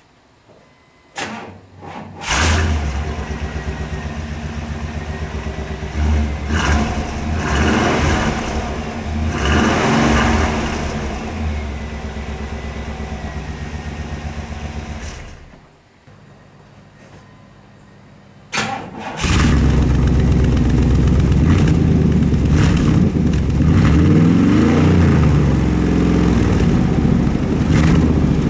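1998 Chevrolet C/K 1500 pickup engine starting on a newly installed aftermarket exhaust and running at idle, with a few short revs. About 15 seconds in, the sound drops away for about three seconds. It then runs again, louder and deeper, with more revving.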